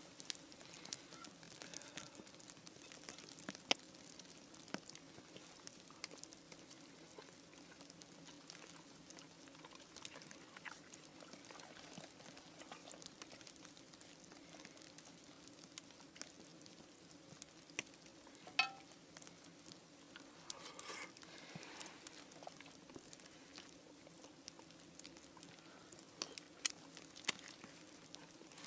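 Faint scattered crackling and clicking over a low steady hum, with one brief brighter squeak a little past halfway.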